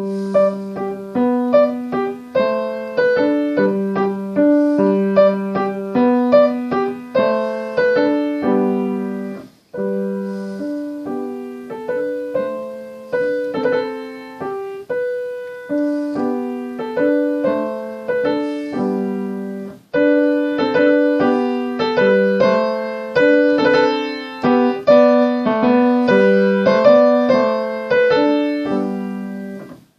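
Piano played with both hands together: a simple beginner's tune in short phrases, with brief pauses about ten and twenty seconds in. Some passages are played loud and others soft.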